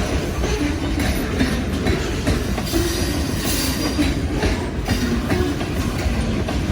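Lake State Railway freight train rolling past, its steel wheels clicking and clattering over the rail joints with a steady rumble.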